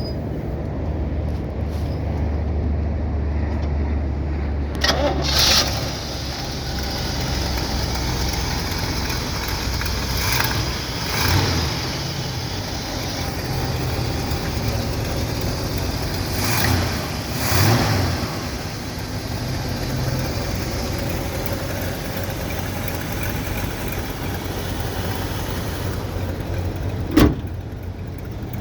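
1967 Oldsmobile 442's V8 engine idling, blipped up briefly three times, at about 5, 11 and 17 seconds in. A sharp click comes near the end.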